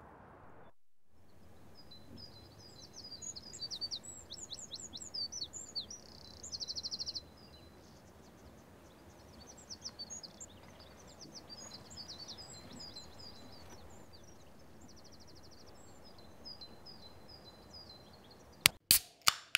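Woodland birds singing: quick high chirps and two rapid trills over a faint steady background hiss. Near the end, a few loud sharp clicks.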